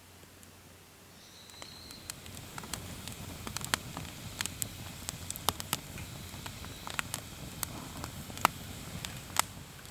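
Wood campfire crackling, with irregular sharp pops over a low rumble; it starts about a second and a half in and stops just before the end.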